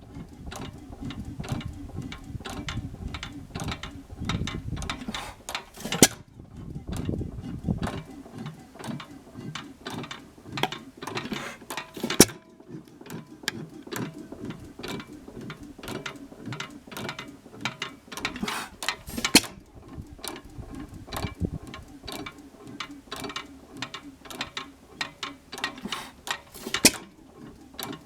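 1918 5 hp Monitor single-cylinder hit-and-miss engine running, coasting between firings with steady clicking and clattering from its valve gear. It fires with a sharp bang about every six to seven seconds, four times.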